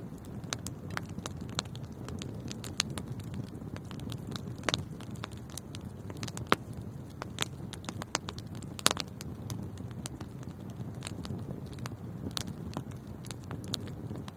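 Wood fire burning with a steady low rumble and irregular sharp crackles and pops, a few louder pops among them.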